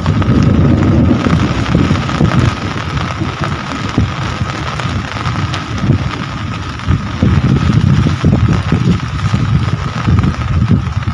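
Heavy rain falling steadily, under a loud low rumble that swells and fades in gusts, like wind buffeting the microphone.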